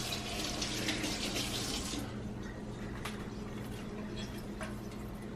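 Water running from a kitchen tap for about two seconds, then stopping, followed by a few small clicks and knocks.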